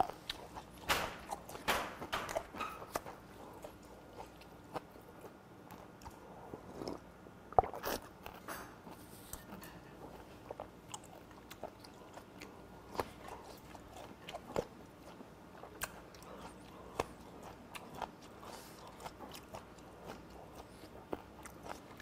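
A person chewing fermented skate and boiled pork close to a lapel mic: wet chewing and lip smacks with scattered sharp clicks, the loudest about a second or two in and just before eight seconds.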